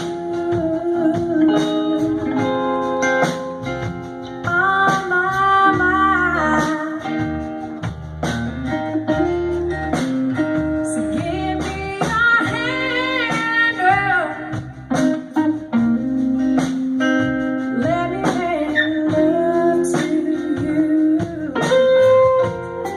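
Live blues music: guitar playing with sung vocals over a steady beat.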